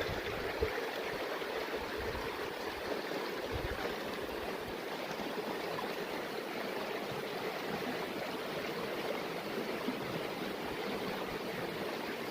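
Steady rushing and gurgling of a mountain stream, with a couple of brief low bumps in the first few seconds.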